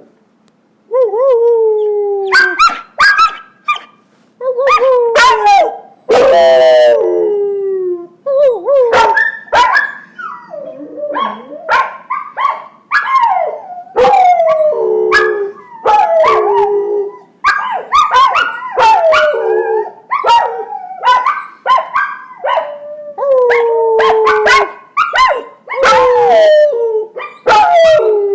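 Puppies howling together in long, downward-gliding howls that overlap, broken by short barks and yips.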